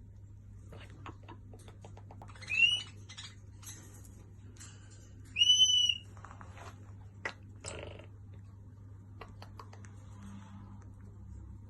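A parrot giving two loud whistled calls about three seconds apart, each rising in pitch and then held, the second longer. Scattered small clicks and taps come in between.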